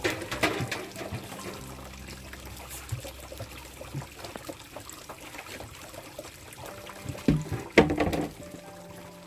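Liquid pouring and trickling, with louder splashy bursts just after the start and again about seven to eight seconds in.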